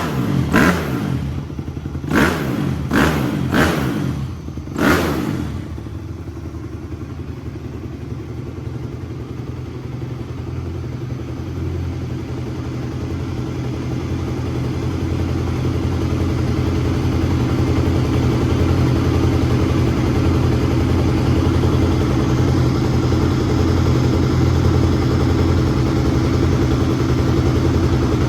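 Freshly rebuilt 2007 Honda CRF250R single-cylinder four-stroke dirt bike engine (new crank, bearings, piston and rings), just kick-started. The throttle is blipped about five times in the first five seconds, then the engine settles into a steady idle that slowly grows louder.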